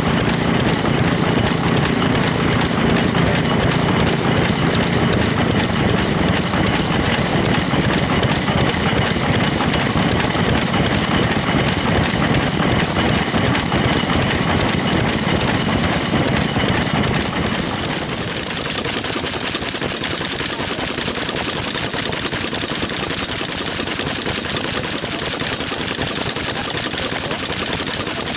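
Old stationary engines (hatsudōki) running steadily, with a fast, even chugging. About eighteen seconds in the sound changes: the low part drops away and a higher hiss takes over.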